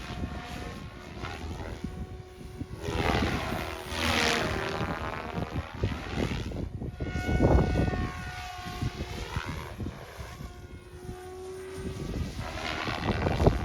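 Omphobby M4 Max electric RC helicopter flying, its rotor and motor whine rising and falling in pitch as it swoops past several times. Low wind rumble on the microphone underneath.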